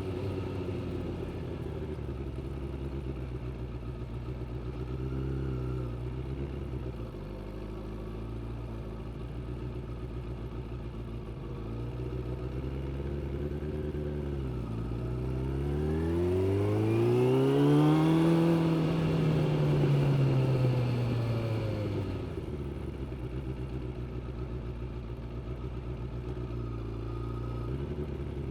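Suzuki GSX600F's inline-four engine running at low, steady revs with a short blip about five seconds in. About halfway through it revs up in one smooth rising pull, the loudest part, then winds gradually back down to steady low revs.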